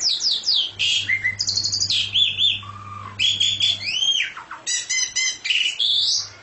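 A songbird singing a fast, varied song of sweeping whistles, arched notes and quick runs of repeated notes, stopping just before the end.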